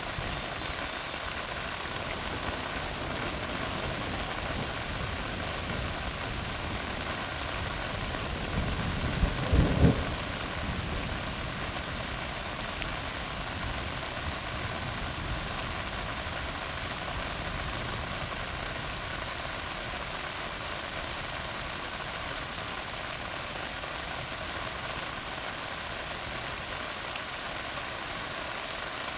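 Steady rain hissing on a tarred road. About nine seconds in, a short low rumble of thunder rises and fades within a second or two.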